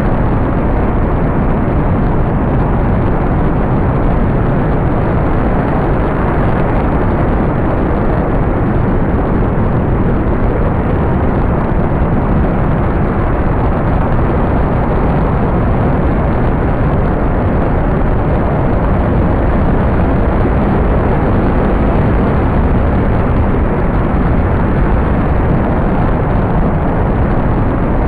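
Single rocket engine firing steadily on a static fire test, a continuous, unbroken roar of exhaust noise.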